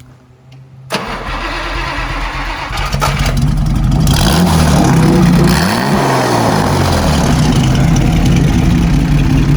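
1960 Maserati 3500 GT straight-six engine, freshly rebuilt after being locked up, starting about a second in and building up to a run. It is revved once around the middle, rising and falling in pitch, then runs steadily.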